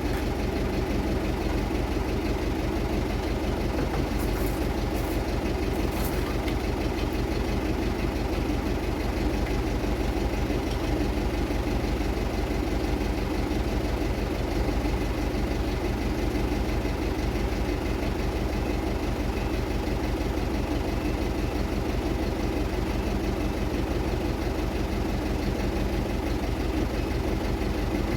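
Diesel engine idling steadily with an even firing rhythm.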